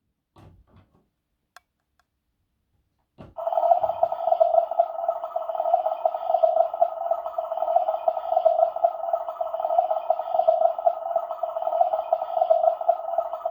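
Small electric motor of a mini toy washing machine switched on with a click about three seconds in, then running with a steady buzzing hum. A few light handling knocks come before it.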